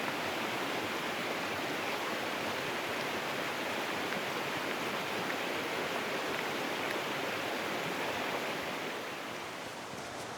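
Alpine stream rushing over rocks: a steady, even rush of water that eases slightly near the end.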